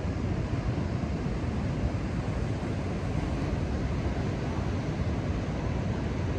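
Steady roar of ocean surf and wind, with wind buffeting the microphone.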